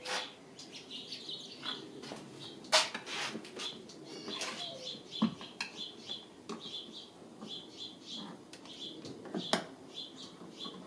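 A small bird chirping over and over in high short notes, roughly every half second. Occasional sharp clicks and knocks come from a screwdriver working at a car's interior door panel, the loudest a little under 3 seconds in and again near the end.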